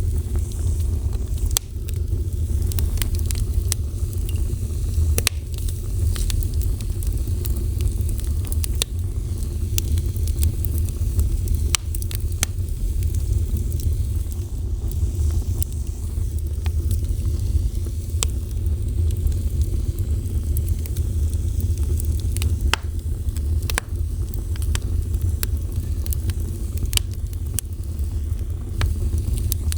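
Fire burning, with a steady low rumble of flames and frequent irregular sharp crackles and pops.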